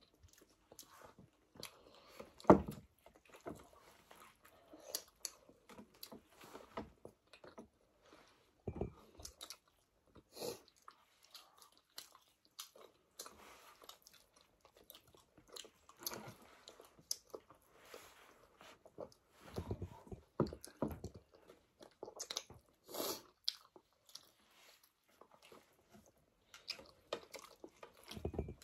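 Several people chewing and biting chapati and buff curry close to the microphone, a scatter of short wet and crunchy mouth sounds with small clicks, and one sharp knock about two and a half seconds in.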